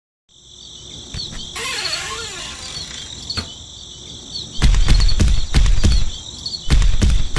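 Crickets chirping steadily in the background, then over halfway in a loud low rumble with rapid clicking starts, breaks off for about half a second and starts again.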